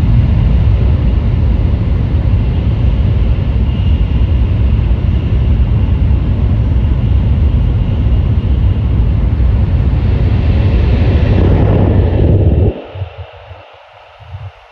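Cabin noise of an N700S Kamome shinkansen running at speed: a loud, steady low rumble with a hiss of wind and track noise, which drops suddenly to a much quieter low hum about two seconds before the end.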